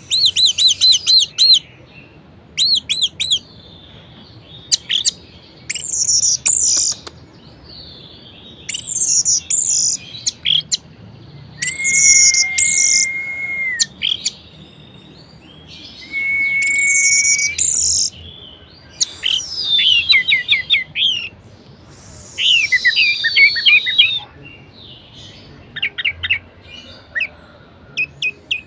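Orange-headed thrush (anis merah) singing loudly in varied phrases of quick repeated whistled notes and trills. Each phrase lasts a second or two, with short pauses between, and two phrases hold a steady whistle.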